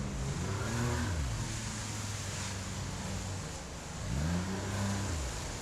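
Outboard motor driving an inflatable jet boat, its revs falling and rising a couple of times with the throttle as the boat slows for rough water, over a steady rush of water.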